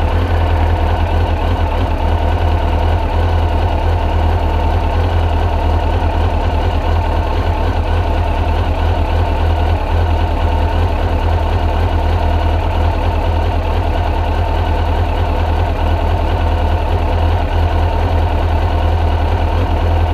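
2002 Suzuki GSX-R1000's inline-four engine running steadily at a fast idle of about 1100 rpm, held there with a touch of throttle while it is still cold.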